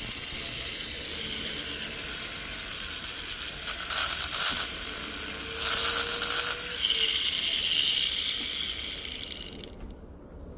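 A small metalworking tool cutting grooves into a piece of 18 karat gold sizing stock, heard as several short bursts of high, rasping scraping with a ratchet-like chatter. The last burst is the longest, and the sound dies away near the end.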